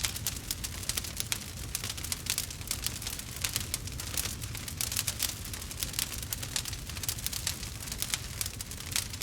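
Campfire crackling: dense, irregular pops and snaps of burning wood over a low rumble of the flames.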